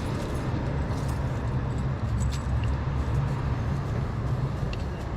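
A vehicle engine idling steadily, with a few faint light clinks over it.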